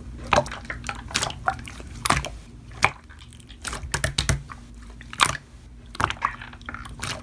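Slime being squeezed and kneaded by hand, making irregular sharp clicks and pops about once or twice a second.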